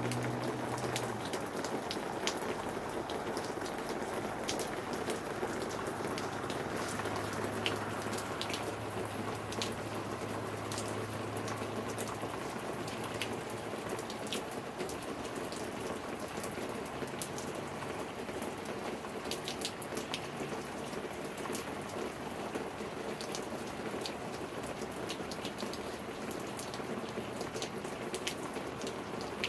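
Steady rain falling during a storm, with many sharp drop ticks on a nearby surface over an even hiss.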